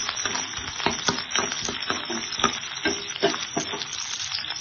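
Shallots, garlic and curry leaves sizzling in sesame oil in a kadai as they are stirred, with the spoon scraping and knocking against the pan about three times a second.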